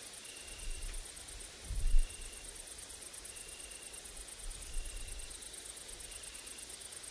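Summer insects stridulating, a rapid high-pitched pulsing chirr, with a short even note repeating about every second and a half. Low wind gusts buffet the microphone, strongest about two seconds in.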